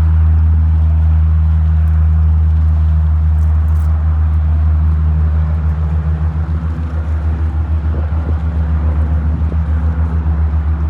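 Low, steady engine drone that begins to pulse rapidly and evenly about six seconds in.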